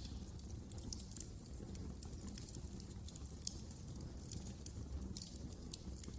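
Fire crackling in a fireplace: irregular sharp snaps and pops over a steady low rumble of the flames.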